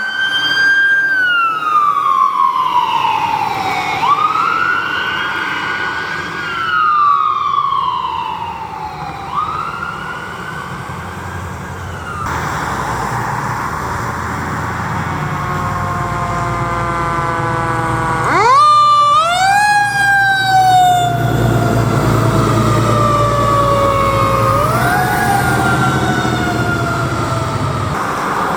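Emergency vehicle sirens on a wail setting, the pitch rising and falling slowly about every four seconds. After a break a second siren winds up sharply about two-thirds of the way in and falls away slowly, over the low running of a heavy vehicle's engine.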